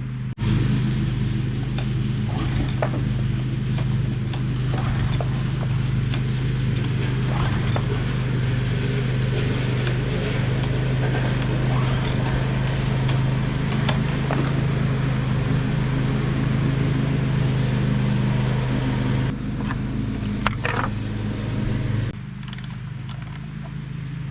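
An engine running steadily with a low, even hum and some light mechanical clicking; the sound shifts about 19 seconds in and drops to a quieter level about 22 seconds in.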